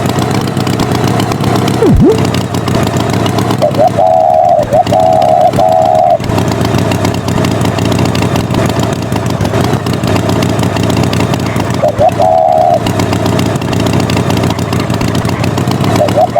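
Tractor engine running steadily, as a cartoon sound effect. Clusters of short warbling high tones come about four seconds in, again around twelve seconds and at the very end. A quick falling-and-rising swoop comes about two seconds in.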